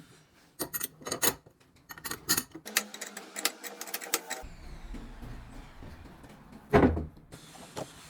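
A run of irregular sharp clicks and knocks, then a faint steady low hum with one louder knock near the end.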